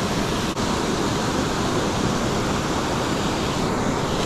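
Steady rush of water pouring over a small river spillway, with a brief dropout about half a second in.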